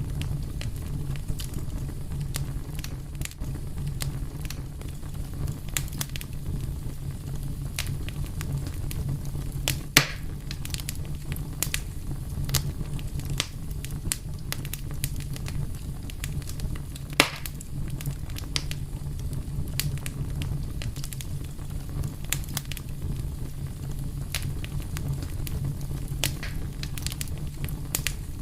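Fire crackling: many small snaps over a steady low rumble, with two sharper, louder pops, one about a third of the way in and one a little past halfway.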